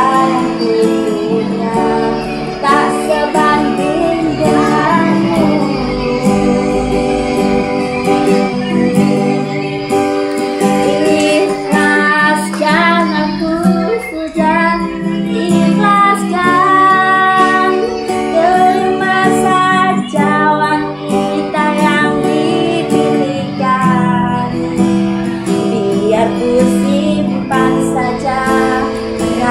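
A high voice singing a melody over a guitar accompaniment.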